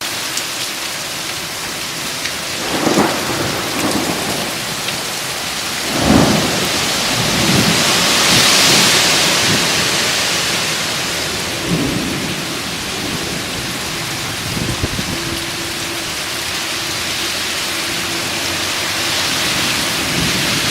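Heavy rain pouring down in a thunderstorm, with thunder cracking and rumbling several times, loudest about six seconds in. The downpour swells briefly a few seconds later.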